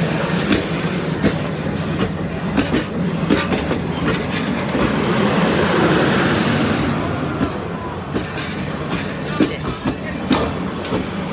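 Train cars rolling past close by: a steady rumble, with the wheels clicking irregularly over the rail joints.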